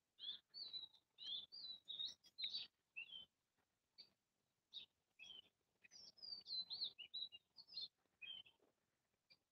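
A bird singing faintly: quick runs of short, high, warbling chirps with brief pauses between phrases.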